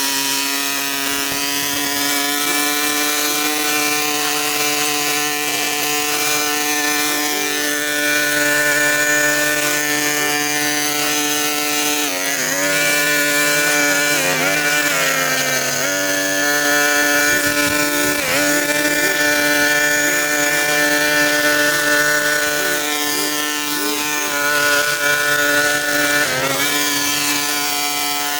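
Small-engine power tool running steadily at high revs, its pitch dipping briefly a few times as it takes load while cutting.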